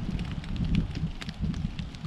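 Strong gusty wind buffeting the microphone, a rumble that rises and falls, with scattered light ticks and crackles.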